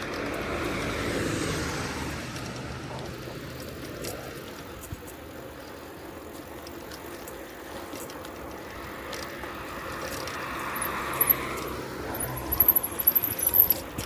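Bicycle riding along a country road: steady tyre and wind noise, with a motor vehicle passing about a second in and another swelling past around ten seconds in. Near the end comes a quick run of sharp, high-pitched ticks.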